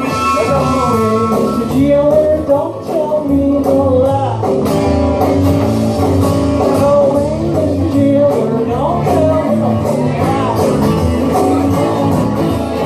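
A band playing a blues-rock tune: guitars and bass under a wavering lead melody line that bends up and down.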